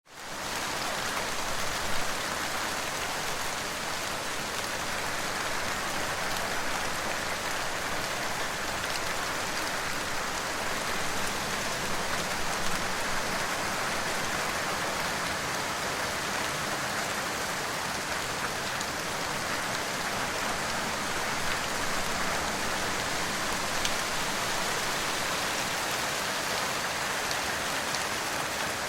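Steady rain falling, a dense even patter of drops on surfaces with an occasional louder single drop.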